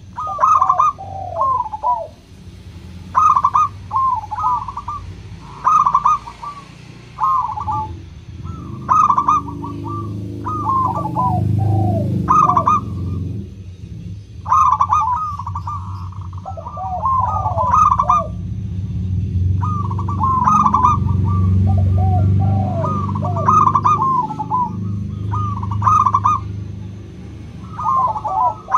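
Zebra dove (local perkutut) cooing: clear, bubbling coo phrases of several quick notes, repeated every two to three seconds, over a steady low rumble.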